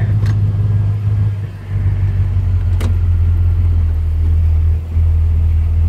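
1957 Chevrolet engine and exhaust droning steadily while driving, heard from inside the convertible, with the loudness easing off briefly twice. No exhaust clack is audible, which the owner takes as a sign that the retightened exhaust manifold has sealed.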